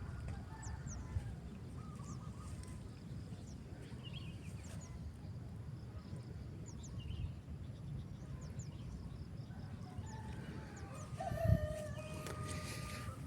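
A rooster crows once, a long drawn-out call starting about eleven seconds in, over a low rumble of wind on the microphone and scattered short high chirps.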